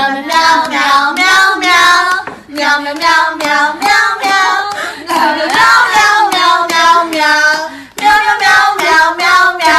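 A high voice singing a wavering melody in several phrases with short breaks between them.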